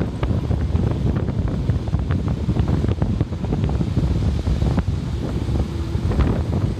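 Wind buffeting the microphone of a camera on a moving vehicle: a loud, rough, fluctuating rumble with scattered crackles.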